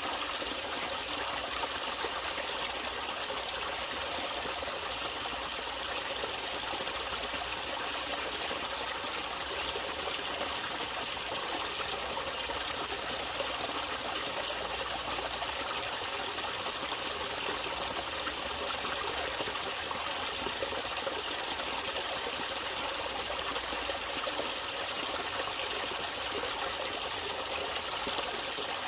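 Natural running water trickling steadily, as of a small stream.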